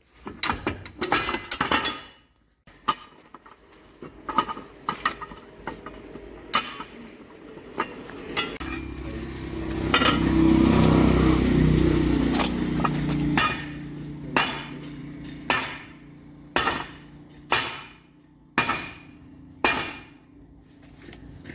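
Heavy hammer blows ringing on steel, from work on a bulldozer's track chain to punch out a link pin. Through the second half the blows come about once a second. In the middle a louder steady drone swells in for about five seconds and fades.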